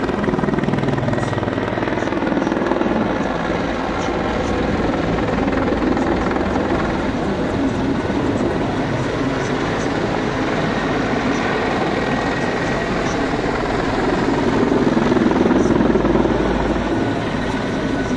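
Mi-24 attack helicopter flying past, its rotor and turbine engines giving a steady throbbing drone that swells louder near the end.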